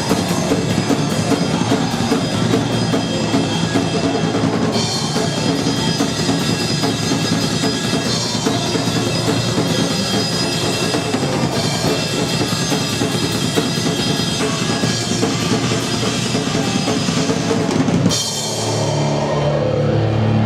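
Alternative rock band playing live, the full drum kit loud, with bass drum and snare driving the song. About eighteen seconds in the song stops on a final hit, and the cymbals fade out while a few low notes ring on.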